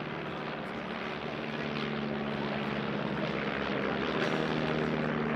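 Piston engines of Stampe biplanes droning steadily in flight, growing a little louder.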